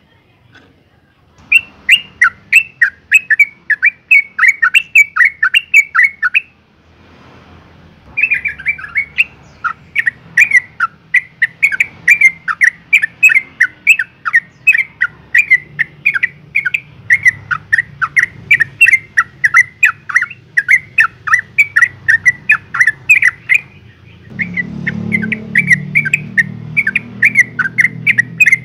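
Yellow-vented bulbul (Pycnonotus goiavier) giving long runs of rapid chattering notes in bouts with short pauses; the uploader calls it a female in breeding condition calling a male. A low hum joins near the end.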